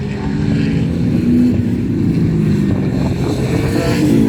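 Several racing car engines run hard as a group of cars passes, their pitches shifting and overlapping. The sound grows louder toward the end.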